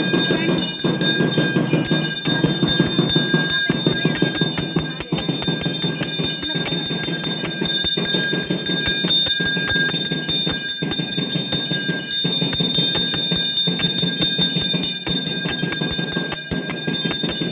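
A bell rung rapidly and continuously, its steady ringing tones held without a break over a dense, lower continuous sound.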